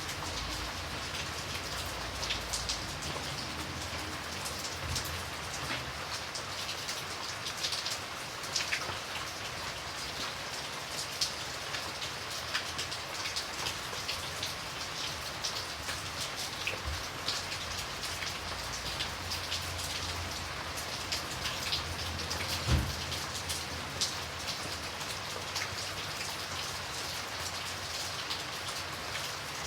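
Steady rain falling, with many individual drops ticking on a hard surface and one louder drop or knock about 23 seconds in.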